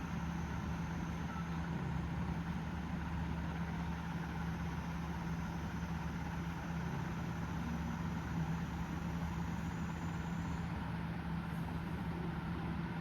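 A steady low mechanical hum with a constant low tone, holding level throughout, and a faint high whine that stops about ten seconds in.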